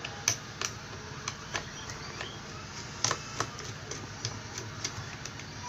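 Screwdriver taking the screws out of a motorcycle digital meter's housing: irregular small clicks and ticks, a few a second, over a faint low hum.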